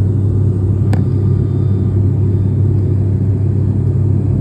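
Steady low rumble of a moving vehicle, engine and road drone, with one sharp click about a second in.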